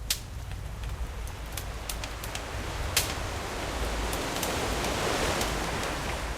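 Campfire crackling with scattered sharp pops, over ocean waves; a wave swells in from about halfway through and eases off near the end.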